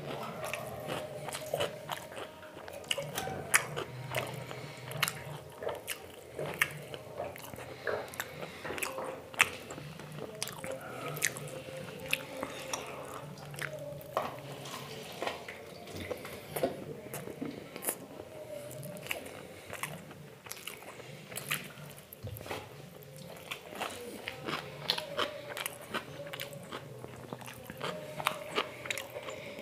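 Close-miked eating: a person biting and chewing mouthfuls of food, with many sharp, irregular crunches and mouth clicks.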